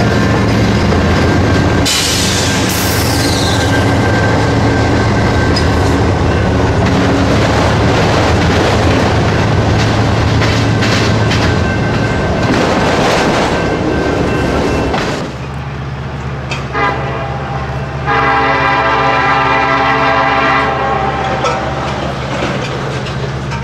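Diesel freight locomotives and autorack cars rolling past close by, with a steady engine drone and wheel-on-rail clatter and a brief high falling squeal a couple of seconds in. After an abrupt change about 15 seconds in, a distant approaching Norfolk Southern train runs with a low drone, and its multi-chime horn sounds one long blast of about three seconds.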